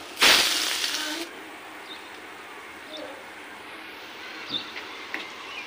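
Egg and vegetable batter dropped into hot oil in a kadai: a loud sizzle starts just after the start and dies down after about a second. A steadier, quieter sizzle of patties shallow-frying follows, with a few faint pops.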